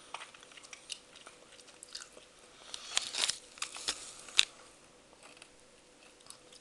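Mouth sounds of someone chewing and crunching a sour candy stick: scattered small crunchy clicks, with a louder cluster about three seconds in and a sharp one a little after four seconds.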